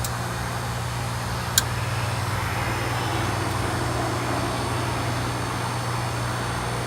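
2001 Amana 3-ton heat pump's compressor running steadily during a defrost cycle, a constant hum with a noisy rush over it. One sharp click about a second and a half in.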